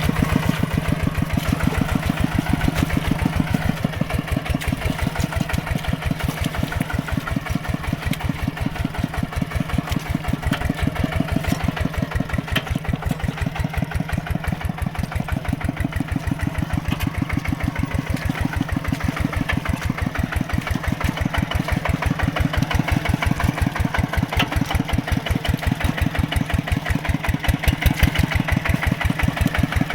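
Mini tractor's engine running steadily with a rapid, even beat, getting a little louder near the end.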